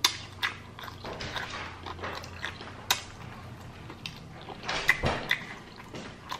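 Close-miked chewing of fried chicken and fries, with wet mouth sounds and sharp, irregular clicks and smacks; a louder cluster comes about five seconds in.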